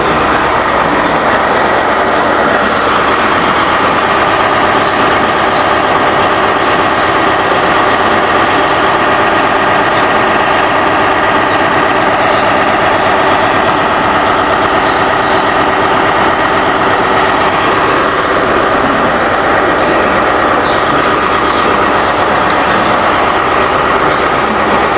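Diesel train running steadily beside the platform, its engine note carrying several steady whining tones.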